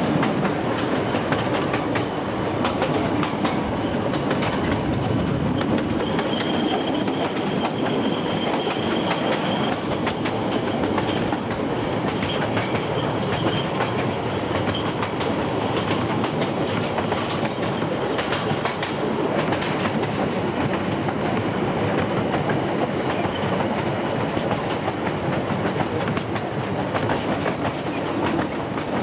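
Narrow-gauge Ffestiniog Railway train running steadily along the line, heard from inside a moving carriage: a continuous loud rumble with the clickety-clack and rattle of wheels on rail joints. A faint high-pitched squeal comes in for a few seconds about a quarter of the way through.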